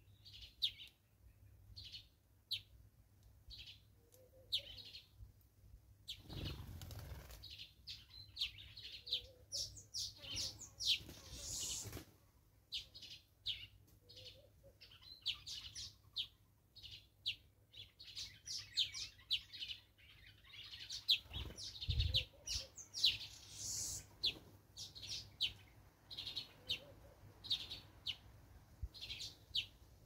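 Small birds chirping over and over in short, high calls. A few brief rushing sounds break in about a fifth of the way in, again near the middle, and again past two-thirds.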